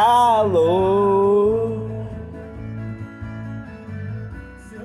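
A song: a singer holds a long note on the word "calor" over acoustic guitar. After about a second and a half the voice drops away and the guitar plays on alone.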